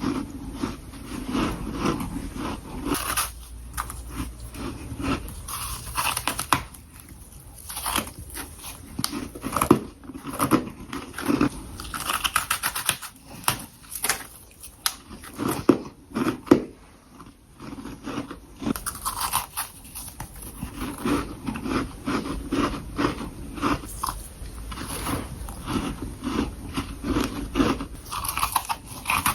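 Close-up crunching of freezer frost being bitten and chewed, a dense run of irregular sharp crunches with brief pauses between bites.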